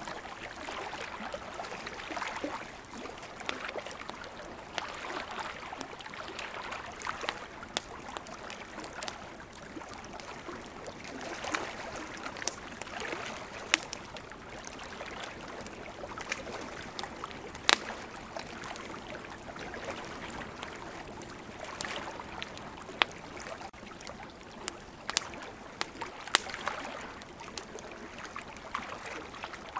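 Wood campfire crackling, with sharp pops scattered throughout and a few louder snaps, over a steady wash of ocean waves.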